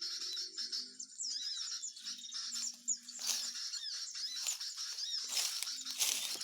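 Small birds chirping and twittering rapidly and continuously in high-pitched, squeaky notes. A faint low hum comes and goes beneath the calls.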